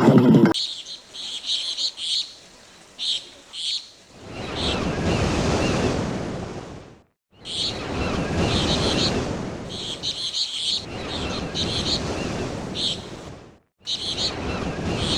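Surf washing in swells, with bird chirps in short high clusters over it. The sound cuts out abruptly twice.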